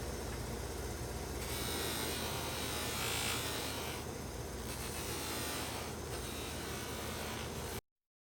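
A small electric motor running steadily with a low hum and a hiss that swells and fades. It cuts off abruptly near the end.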